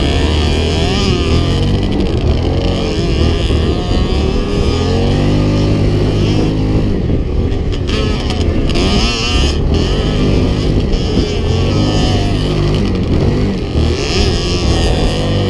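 Off-road motorcycle and quad engines running and revving, their pitch rising and falling again and again as they ride.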